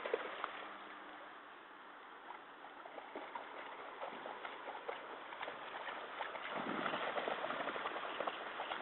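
Shallow water splashing and sloshing as a dog wades and paws at it, with a steady water rush and many small splashes and clicks, busiest in the second half.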